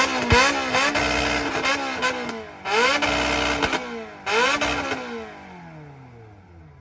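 A supercar engine being revved hard, three times: each rev climbs quickly, holds and drops back. From about five seconds in the revs fall away and the engine settles toward idle.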